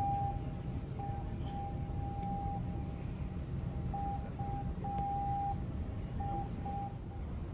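Steady low rumble of a cruise ship under way, with a single steady high tone sounding on and off in short and long pulses throughout.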